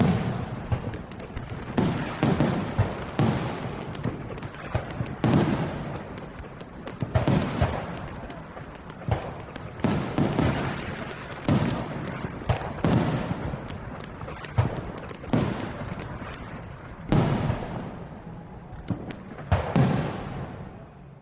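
Fireworks bursting, with a new boom every second or two and sharp crackling in between. The display fades out near the end.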